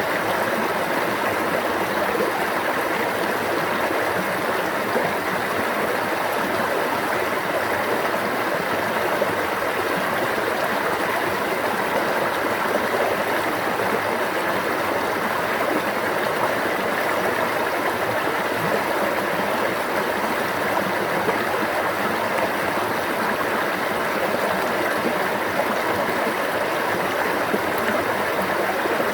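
Water running in a stream, a steady rushing flow that does not change.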